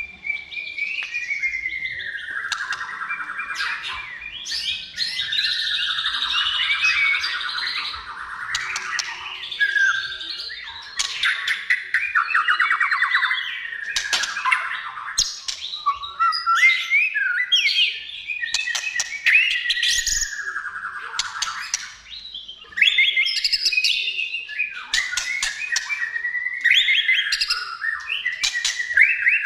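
White-rumped shama singing a continuous, varied song of whistled glides, rapid buzzy trills and sharp clicking notes, one phrase running into the next with only a brief pause about three-quarters of the way through.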